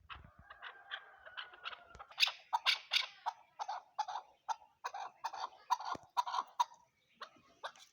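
Chukar partridge calling: a rapid, rhythmic series of short chuk notes, about three to four a second, loudest a couple of seconds in and thinning out near the end.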